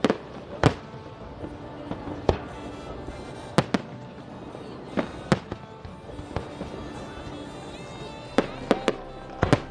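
Fireworks bursting in an irregular series of sharp bangs, about a dozen, some in quick clusters, over background music.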